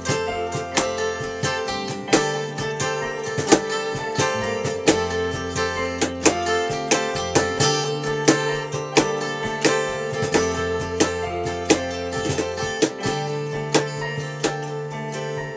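Acoustic guitar played without singing: plucked and strummed chords with frequent sharp note attacks over held bass notes that change every second or two.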